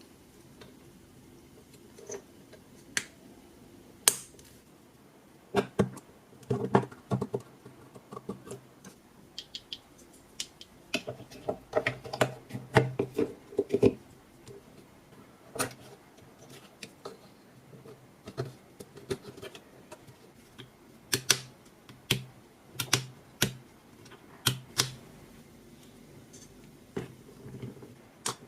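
Irregular clicks and taps of small hard parts and tools being handled during a repair, coming in short clusters with pauses between.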